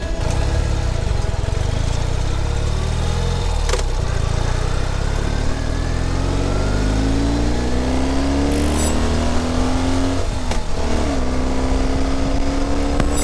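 Ural sidecar motorcycle's air-cooled flat-twin engine pulling under way, its pitch rising for several seconds. It drops briefly at a gear change about ten seconds in, then runs steady.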